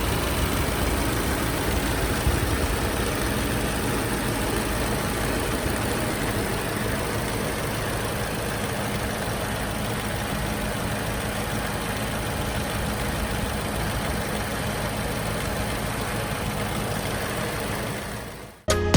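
Subaru WRX S4's turbocharged flat-four engine running steadily as the car is driven, fading out near the end.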